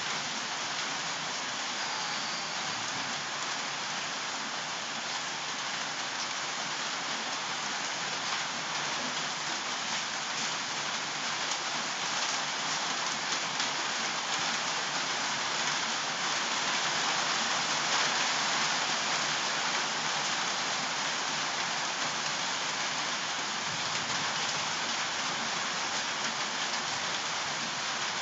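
Steady rain falling, with many small drops ticking on surfaces; it swells slightly about halfway through.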